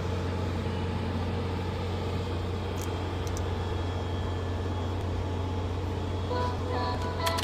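Steady low hum with road noise from a vehicle on the move, with faint music coming in near the end.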